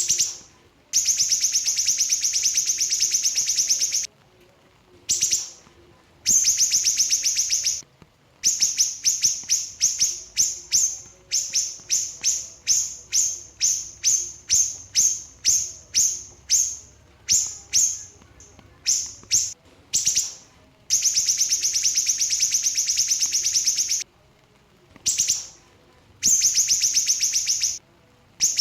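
A small songbird of the kind Indonesian keepers call 'siri-siri kecil' singing high, sharp notes in rapid-fire bursts: long fast trills of a few seconds alternate with runs of separate notes, about two a second, with short pauses between.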